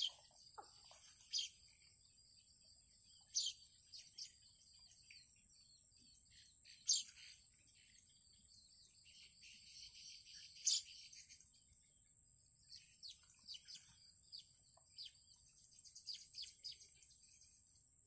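Faint, short, high bird chirps at irregular intervals, the loudest about seven and eleven seconds in, over a thin steady high-pitched tone.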